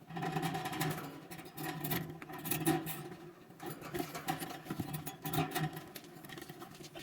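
Lovebirds chattering, with quick high squeaks and chirps throughout, over a steady low hum.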